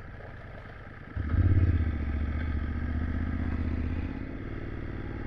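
Motorcycle engine running. About a second in it opens up with a short rise in revs, then pulls steadily, easing off a little near the end.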